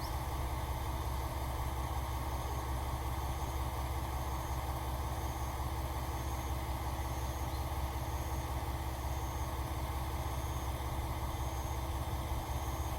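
Diesel railcar engine running steadily with a low, even hum, and a faint high pip repeating a little more than once a second.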